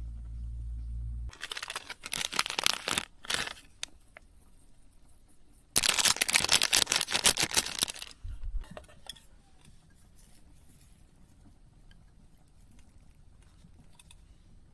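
A low hum stops just over a second in. Then plastic packaging crinkles and is torn open in two bouts, the second starting about six seconds in and lasting about two seconds.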